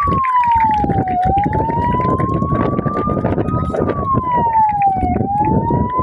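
A wailing siren, its pitch climbing slowly and then dropping more quickly, about once every four seconds, over a dense, loud background din.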